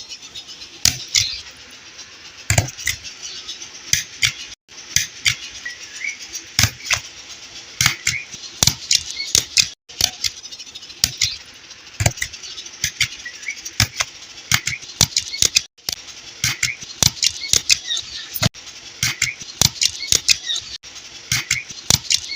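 Paper and covering sheet being cut and handled while covering notebooks: many short, sharp, irregular snips, crinkles and taps.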